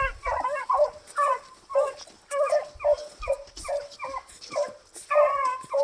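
An animal giving a quick series of short, high, yelping calls, about two or three a second.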